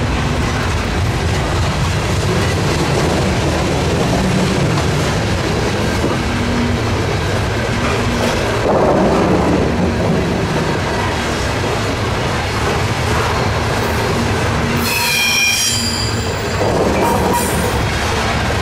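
Freight train cars rolling past, with steady wheel-on-rail noise and clickety-clack from the wheels over the rail joints. About fifteen seconds in, a wheel flange briefly squeals in several high tones.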